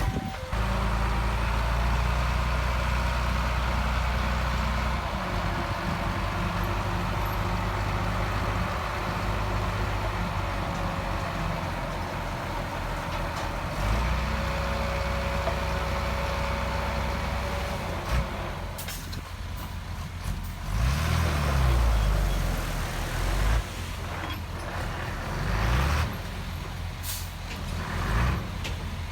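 Heavy diesel engines of earthmoving machinery running with a steady low drone, revving up and down about two-thirds of the way in. Short hisses of truck air brakes come about two-thirds of the way in and again near the end.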